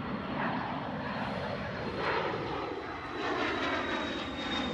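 Jet aircraft engines running, a steady rushing noise with a thin high whine that slowly falls in pitch.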